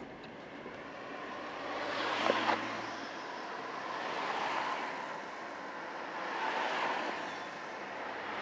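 Street traffic going by: a string of vehicles passing one after another, each swelling up and fading away, about every two seconds. The first pass carries a couple of sharp clicks at its loudest.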